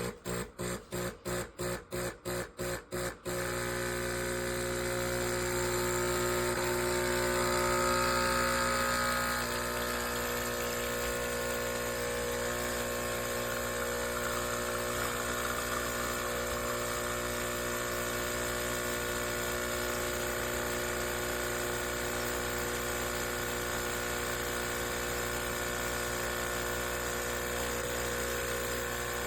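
HiBREW H10B espresso machine's vibratory pump brewing an espresso shot. It pulses in quick short bursts, about three or four a second, for roughly three seconds, then runs as a steady buzzing hum.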